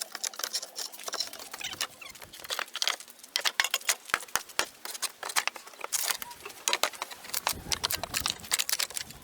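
Rapid, irregular light clicks and taps, several a second, with no steady sound beneath them.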